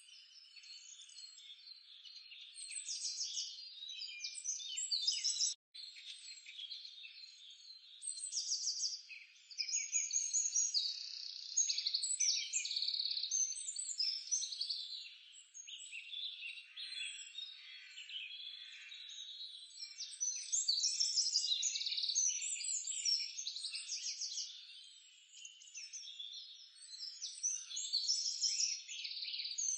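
Outdoor wildlife chorus: many overlapping high chirps and trills from small calling animals, steady throughout with a brief dropout a little over five seconds in.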